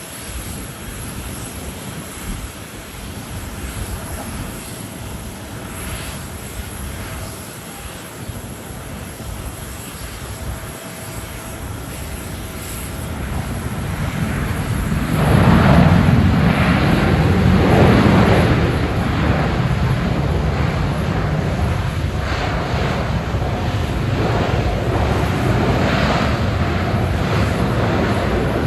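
Boeing 787-10 jetliner landing in strong wind. Its engine noise is faint under wind for the first half, then rises to a loud, deep rumble about fifteen seconds in and stays loud.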